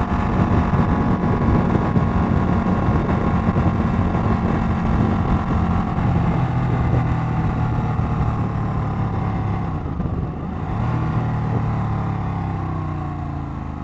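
Ducati 1199 Panigale's V-twin engine running under way, heard from on the bike with wind rush. The engine note steps down about six seconds in, dips briefly around ten seconds, then picks up again.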